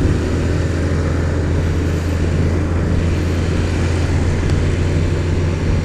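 Motorcycle engine running at a steady speed while riding, with a steady low hum and an even rush of road and wind noise.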